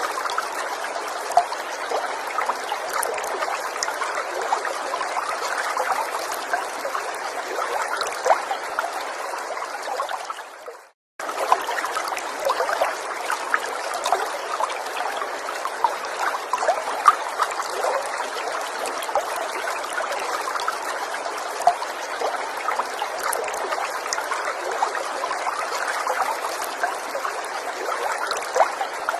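Small forest stream trickling and babbling steadily over stones, with many small splashes. About eleven seconds in, the sound fades and breaks off for a moment, then starts again abruptly.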